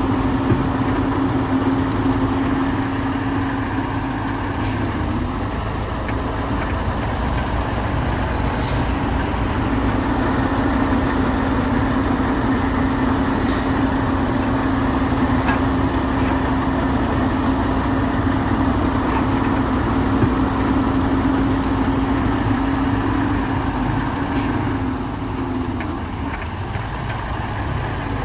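Heavy diesel engine of earthmoving machinery running steadily with a constant low hum, which eases briefly twice. Two short high hisses about nine and thirteen seconds in.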